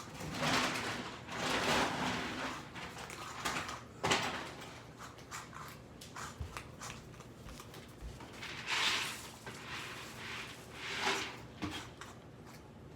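Cat food and bowls being handled on a counter: several scraping, rustling passes with a sharp knock about four seconds in.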